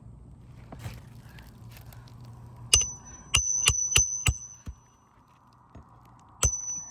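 Hammer blows on steel at a shingle roof repair: five quick strikes about three to five seconds in and one more near the end. The early blows and the last one each leave a high metallic ring.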